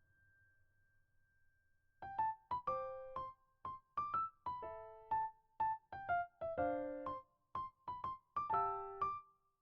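Background music: after a near-silent pause, a light electric-piano melody of short, staccato notes starts about two seconds in.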